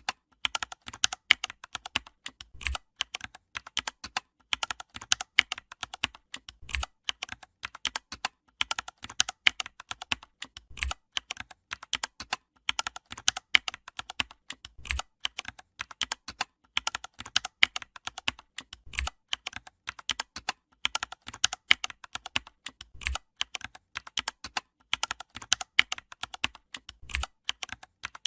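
Rapid computer keyboard typing, dense key clicks with a heavier thump about every four seconds, in a repeating pattern.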